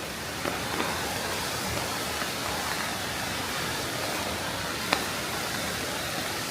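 Steady hiss of rain falling, with a few sharp ticks; the loudest comes about five seconds in.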